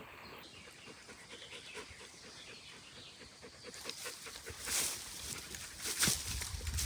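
A dog panting in quick, repeated breaths, starting about four seconds in and getting louder, with a low rumble joining near the end.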